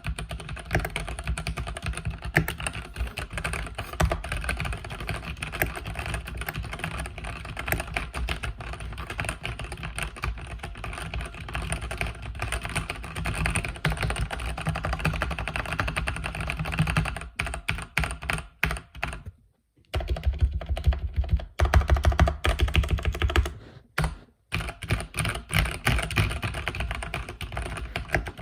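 Mechanical keyboard with red linear switches being typed on quickly and continuously, a dense patter of key strokes. The typing stops briefly twice about two-thirds of the way in, and is louder for a couple of seconds between those pauses.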